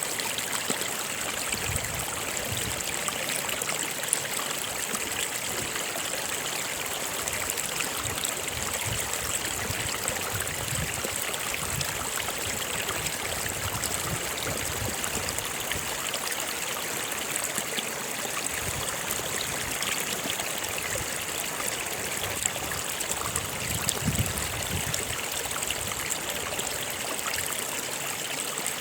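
A stream or small river flowing steadily over rocks: an even rush of water with small irregular gurgles and trickles.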